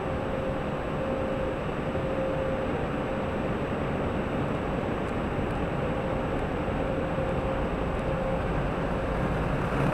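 Steady rushing noise of an automatic car wash, heard from inside the car, with a faint hum that comes and goes.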